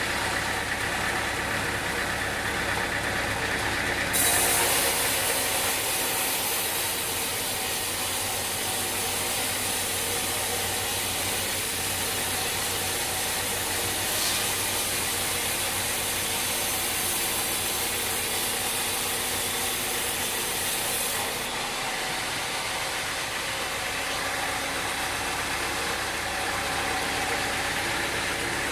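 Sawmill machinery running steadily, with a saw cutting through wood: a loud hiss joins about four seconds in and stops about seven seconds before the end.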